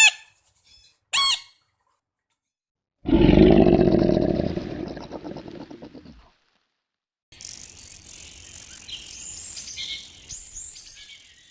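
A run of different animal calls: two short, high pitched calls a second apart, then a loud low roar of about three seconds that fades away, then high chirping, as of birds or insects, to the end.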